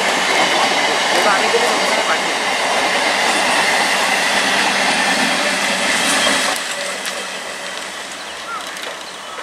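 Electric multiple unit (EMU) local train passing close, a loud steady rumble and clatter of wheels on rails. About six and a half seconds in it drops suddenly to a much quieter, fainter train sound that fades toward the end.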